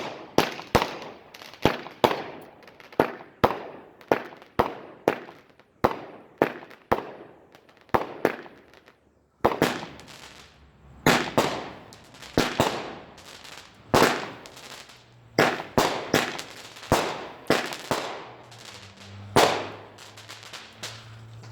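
Consumer fireworks going off in a rapid series of sharp bangs, about two a second, each with a short echoing tail. There is a brief lull around eight to nine seconds in, then the bangs resume.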